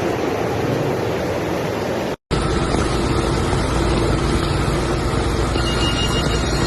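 Heavy rain and rushing runoff water, a steady loud rush. The sound cuts off briefly about two seconds in and resumes, now with a steady low hum beneath the rush.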